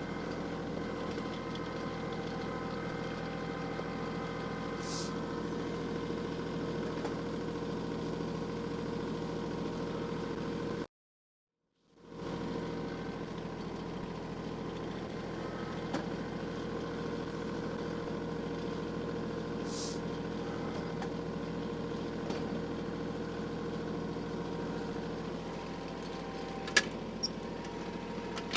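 An engine running steadily at an even speed, with a complete break of about a second near the middle and a few sharp clicks near the end.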